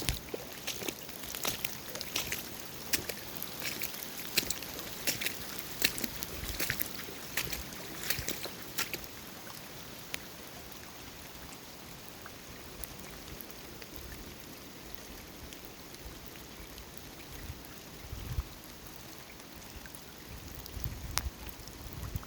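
Running water, with many small sharp splashes and clicks over the first nine seconds or so, then a steady even hiss.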